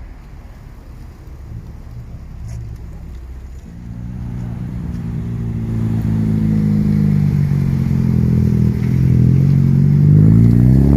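A car engine and exhaust growing steadily louder from about four seconds in, as if driving up close. Its pitch sags slightly, then climbs as it speeds up near the end, where it is loudest.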